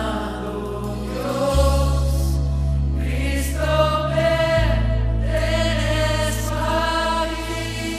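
Christian worship song: voices singing over long held keyboard chords, the bass note shifting about a second and a half in and again near five seconds.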